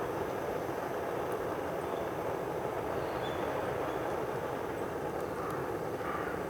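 Dry bamboo bonfire burning with a steady rushing sound and a few faint crackles.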